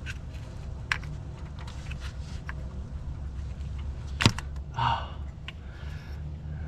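Small metallic clicks and taps of a 5/16 wrench on the bolt holding a Ford V10's camshaft position sensor, as the sensor is worked loose and pulled out. One sharp click about four seconds in, followed by a brief scrape, over a steady low hum.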